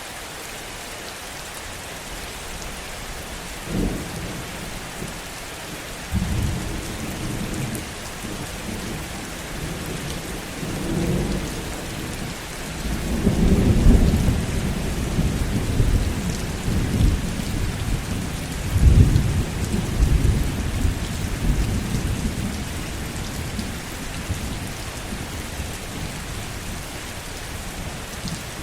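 Heavy rain falling steadily as a thunder roll builds: a sharp crack about four seconds in, then a long low rumble that swells in waves, loudest around the middle, and slowly dies away toward the end under the rain.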